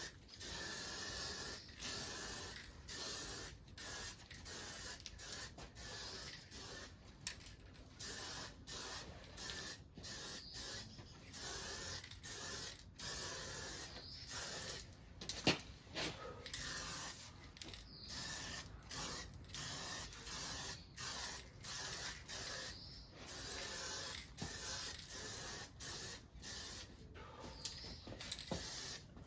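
Spray paint hissing from a nozzle in short bursts, about one a second, as a motorcycle frame is painted. There is one sharp click about halfway through.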